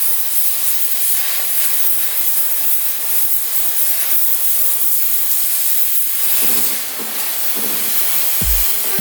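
Steady harsh hissing, rasping noise, with background music whose thumping beat comes in near the end.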